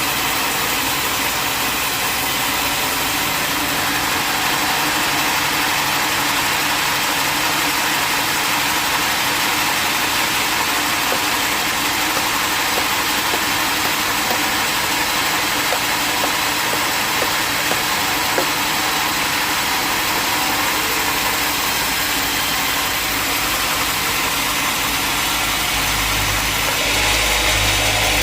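Sawmill machinery running steadily, a continuous engine-like drone with a dense hiss, with a low rumble coming in near the end.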